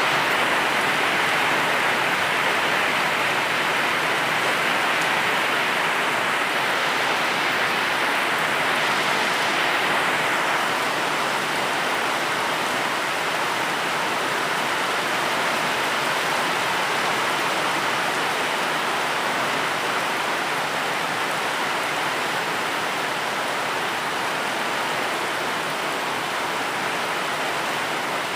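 Steady rain falling, a dense even hiss of drops with no distinct individual impacts, easing slightly about ten seconds in.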